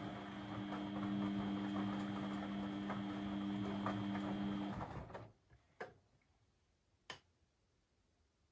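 Beko washing machine's brushed universal motor humming as it turns the drum in the wash cycle. It stops a little under five seconds in, and two sharp clicks follow in the pause before the drum turns again.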